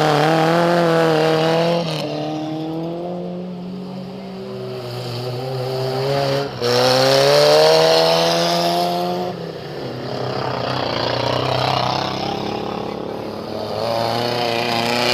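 Racing car engines from a 1200–1800cc class, run hard and revving: the engine note climbs in pitch, breaks off abruptly about two and six and a half seconds in, climbs again, then fades into a rougher stretch before rising once more near the end.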